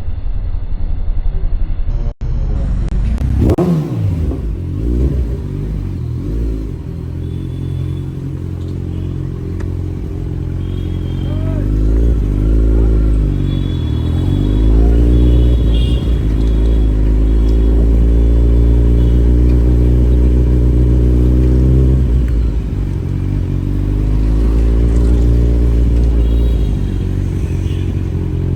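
Kawasaki Ninja superbike engine running through an aftermarket Austin Racing exhaust. It is revved up and down a couple of times, held steady at raised revs for several seconds, then revved again near the end.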